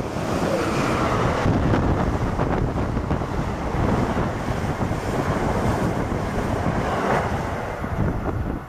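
Amtrak passenger train passing the platform at speed: a loud, steady rush of rolling cars and air, with strong wind buffeting the microphone. The noise drops off sharply near the end as the last car goes by.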